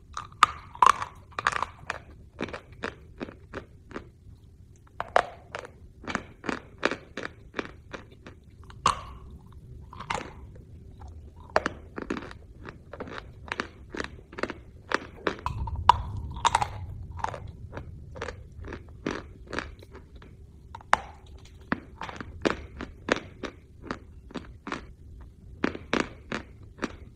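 Crunchy white chunk being bitten and chewed: dense runs of sharp crunches in bursts with short pauses between bites.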